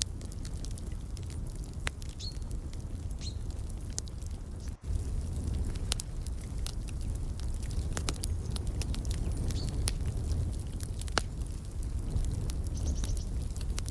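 Wood fire crackling, with many irregular sharp pops and clicks over a low steady rumble, and a few short high bird chirps now and then.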